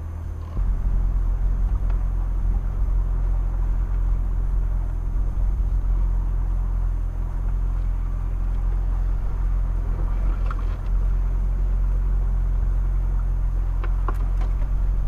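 Mitsubishi Pajero Sport's engine running under load while driving, a low steady drone that steps up about half a second in and dips briefly near eleven seconds, with a few faint clicks.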